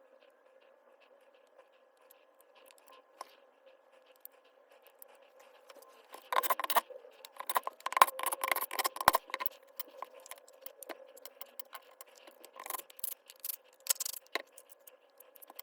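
Hard objects being handled: a quick run of clicks, rattles and scrapes about six to nine seconds in, then scattered single clicks.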